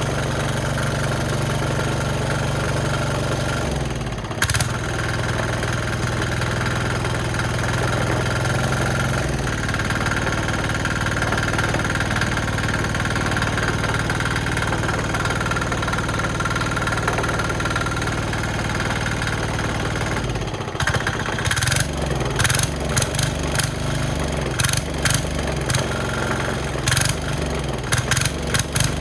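Small single-cylinder diesel engine running, its speed shifting a few times. From about two-thirds of the way through it runs unevenly, in irregular pulses.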